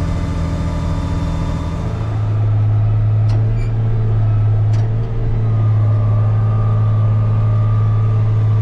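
Diesel engine of a farm vehicle running steadily, heard from inside its cab. About two seconds in the hum drops in pitch and gets louder, as if the engine is taking on load.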